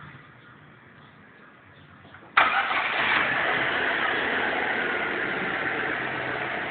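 Chevrolet Celta's four-cylinder engine starting suddenly about two and a half seconds in, then running steadily at idle. The owner calls the engine 'ronco', rough-running, with a knocking noise he fears will end in a seized engine.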